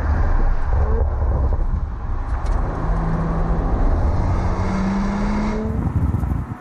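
Audi RS4 Avant's 2.9-litre twin-turbo V6 running under load with a heavy low rumble; its pitch climbs about five seconds in, then the sound drops off near the end.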